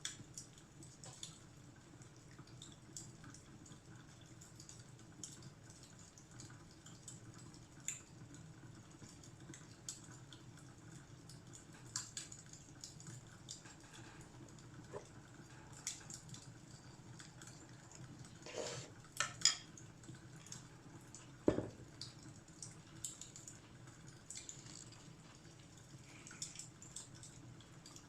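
Fireplace crackling softly: scattered small pops and snaps over a low steady hiss, with a few louder snaps and a sharp knock in the last third.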